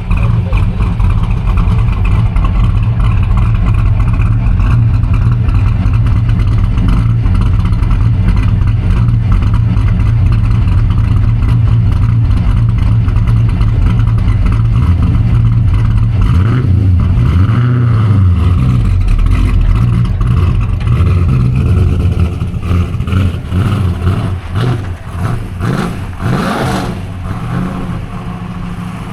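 Leyland P76 race car's engine running loud and steady. Near the end it drops in level and becomes uneven.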